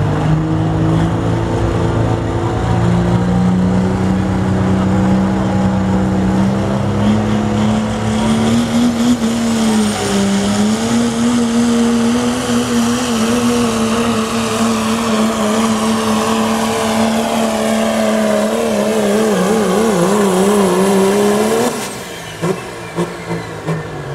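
Turbocharged diesel pickup truck engine at full throttle pulling a sled: its pitch climbs over the first few seconds, then holds steady with a high turbo whistle above it. The pitch wobbles shortly before the engine cuts off sharply about 22 seconds in.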